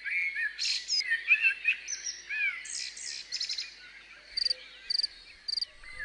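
Songbirds singing: a busy mix of warbling, chirping phrases, then a run of short, high, evenly spaced notes about every half second near the end.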